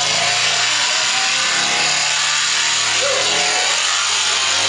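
Loud, steady crowd noise with scattered shouts and music underneath.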